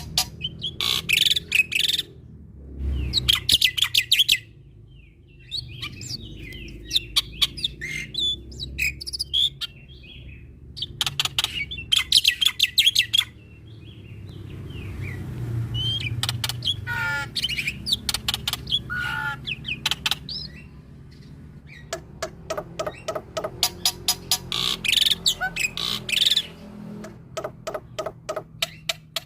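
Male black-winged myna (jalak putih) singing a varied, chattering song: bursts of rapid clicking rattles alternating with short chirps and whistled notes.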